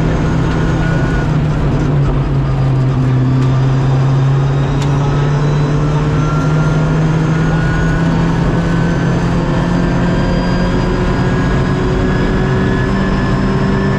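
Rally car engine pulling hard in sixth gear at about 140 km/h, heard from inside the stripped cabin: a steady drone whose pitch dips slightly a few seconds in, then climbs slowly, over road and tyre noise.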